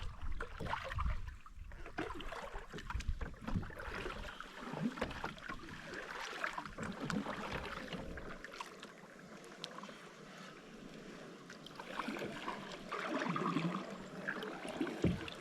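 Paddle strokes dipping into lake water, with splashes and drips and water lapping against a small paddled boat.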